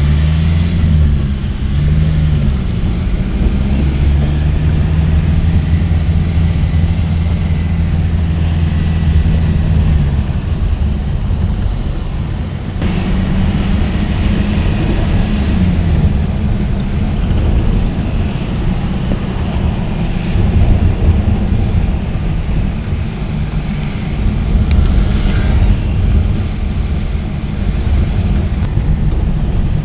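Motor vehicle engine running while driving, with a low hum that holds steady for stretches and shifts in pitch, dropping about ten seconds in and rising again a few seconds later, over continuous road noise.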